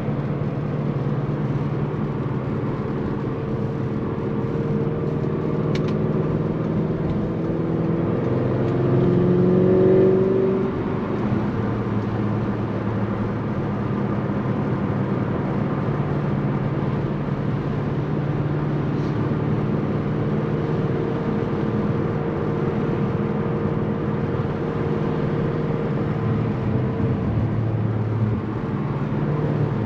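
Tuned Audi S6 engine and exhaust running while driving, a steady drone. About eight seconds in it pulls harder, its pitch rising to a louder peak around ten seconds, then drops back suddenly to steady cruising.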